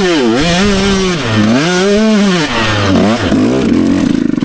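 125cc dirt bike engine revving hard, its pitch swinging up and down several times as the throttle is worked. It stutters and drops away abruptly near the end.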